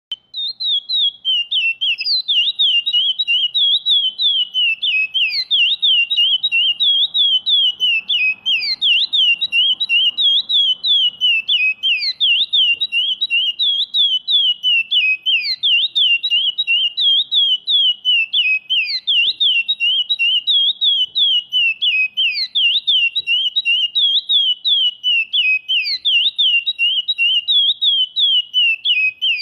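Brown-plumaged ('pardo') curió (chestnut-bellied seed finch) singing the classic Praia Grande song type: a fast, unbroken run of high, clear whistled notes, each rising and falling, several a second.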